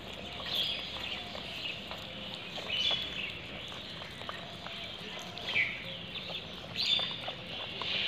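Birds calling in the background, a few short high chirps about every two seconds, one dropping in pitch, over faint scattered clicks and steady street ambience.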